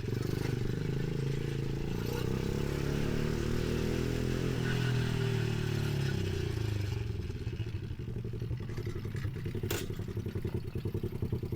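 Single-gear pit bike engine running under a rider, its pitch rising and falling with the throttle, then easing off to a lower, choppy running about seven seconds in. A sharp click near the end.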